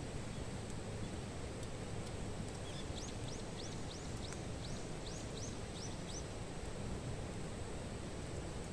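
A small bird sings a quick run of about ten arched, whistled notes, around three a second, over a steady outdoor hiss with a few faint sharp crackles.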